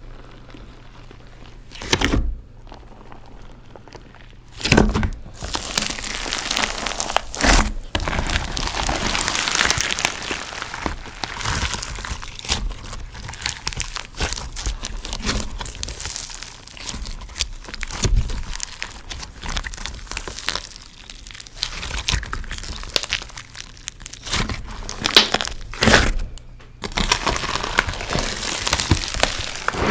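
Close-miked crinkling and crackling with many sharp clicks, the kind of sound made for ASMR, set off by a few separate knocks early on.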